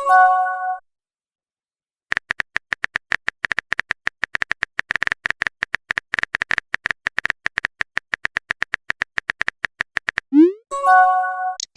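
Rapid keyboard typing clicks from about two seconds in until about ten seconds, then a quick rising swoosh and a short chime of a few tones, the sound of a message being sent or received. The same chime also rings right at the start.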